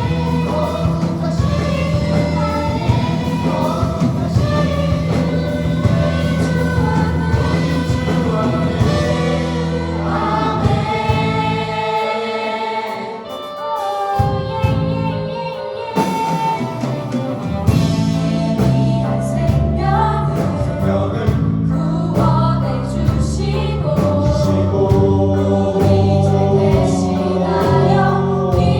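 Choir singing a gospel praise song with full instrumental accompaniment. About twelve seconds in, the bass drops away for a few seconds, leaving held voices and chords, and then the band comes back in with drums.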